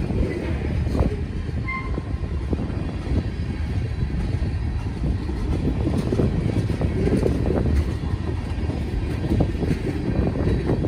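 Freight train cars, covered hoppers and tank cars, rolling past at close range: a steady low rumble of steel wheels on rail, with scattered clicks and clanks throughout.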